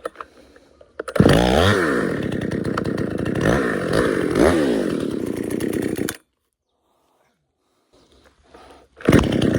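Chainsaw running loud, its engine pitch dipping and rising about once a second as it is revved, then stopping abruptly and starting up again near the end.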